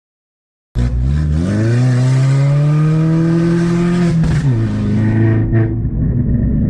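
Drift car engine revving hard: it starts abruptly under a second in, climbs in pitch, holds high for about two seconds, then drops back and keeps running at lower revs.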